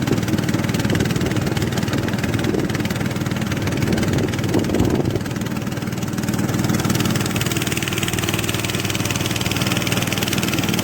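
A fishing boat's motor running steadily under way, a constant low drone, with a brief louder rough patch about halfway through.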